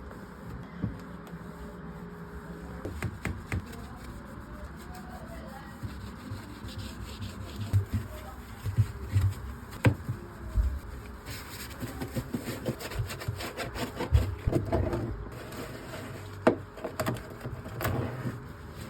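Fridge cleaning: items, containers and fittings being handled, with scattered knocks, clicks and rubbing that grow busier about a third of the way in.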